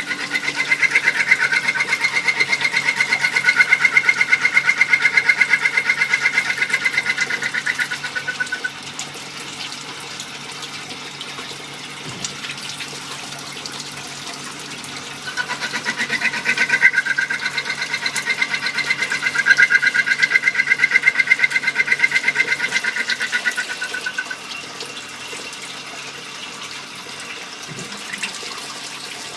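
Compound automatic lathe turning small-diameter precision parts. There are two cutting spells of several seconds each, where a high whine pulses rapidly over a rushing noise. Between and after them the machine runs more quietly and steadily.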